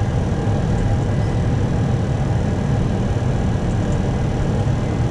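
Steady rush of airflow and engine noise on an Airbus A321 flight deck in flight on approach, heaviest in the low end.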